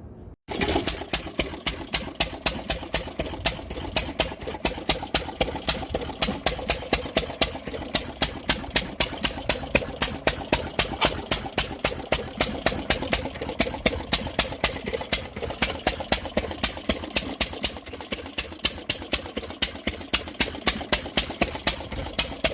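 Galloway Handy Andy single-cylinder stationary gas engine running, a rapid, even train of clicks with louder firing beats mixed in irregularly. It starts abruptly just after the opening.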